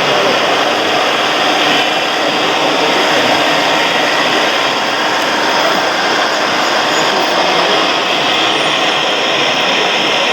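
Steady, unbroken whirring and grinding of the small electric motors and gearboxes on radio-controlled model construction machines at work.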